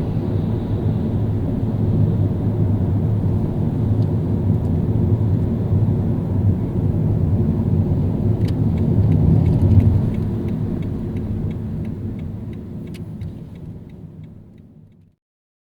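Car driving in city traffic: a steady low rumble of road and engine noise that fades away near the end. In the second half a light ticking sounds about twice a second.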